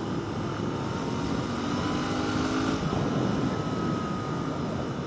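Royal Enfield Continental GT 650's parallel-twin engine running at a steady cruise, its pitch creeping up a little partway through, over continuous wind and road noise.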